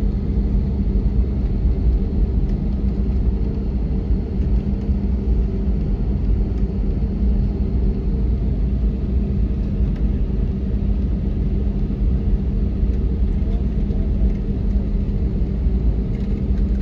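Steady low rumble inside the cabin of an Airbus A321neoLR on the ground after landing, with a constant engine hum from the idling engines and airframe running underneath.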